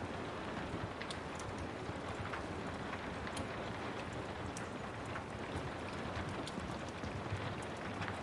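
Steady rain with a wood fire crackling, its sharp pops and snaps scattered irregularly over the even hiss of the rain.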